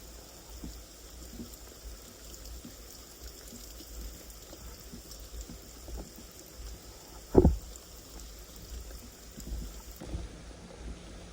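Steady rain with scattered drops ticking, and a faint steady high insect trill. One single louder thump comes a little over seven seconds in.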